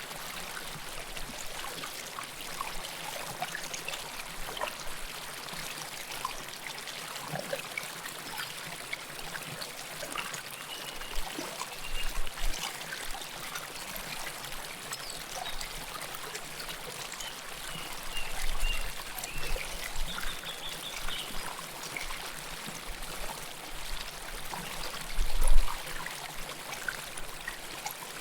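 River water flowing and trickling close by: a steady rush with many small, quick plinks. A few low bumps rise above it, the loudest near the end.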